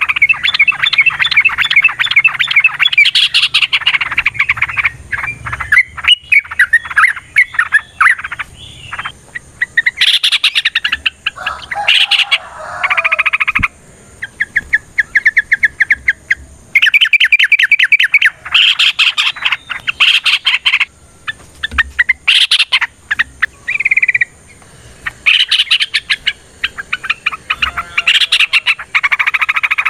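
Yellow-vented bulbuls (trucukan) singing in fast rattling trills, repeated in bursts of one to several seconds with short pauses between them. These are the long, rapid bursts that keepers call "ropel panjang".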